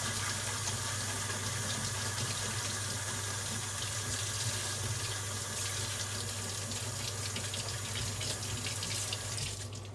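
Kitchen tap running water in a steady stream, turned off abruptly near the end.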